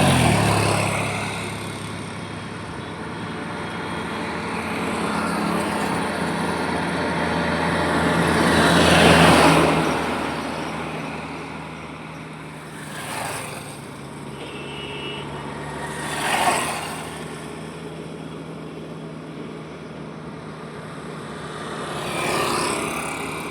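Highway traffic: vehicles passing one after another, the loudest pass about nine seconds in over a low steady engine drone, with shorter, quicker passes near the middle and end.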